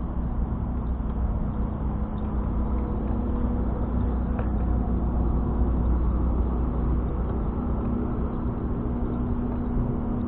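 Steady low rumble of wind and road noise from a moving bicycle, with a faint steady hum underneath.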